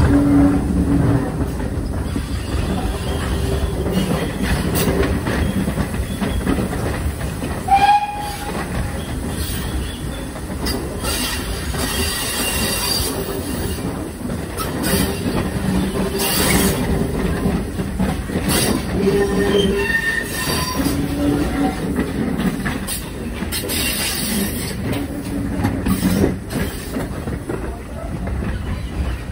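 Pannier tank steam locomotive and its train running along the track: a steady rumble of wheels on rail, with a short high squeal about eight seconds in.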